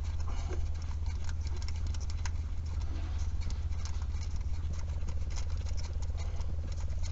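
Scattered light clicks and small rattles of hand tools and parts being worked on an engine, over a steady low rumble.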